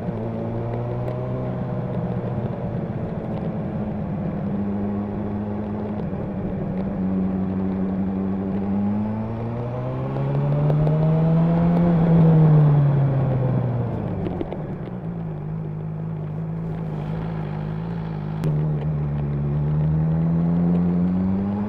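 Honda CB1000R's inline-four engine and exhaust running under way. The engine pitch holds steady, climbs to its loudest about halfway through as the bike accelerates, drops back a few seconds later, and climbs again near the end.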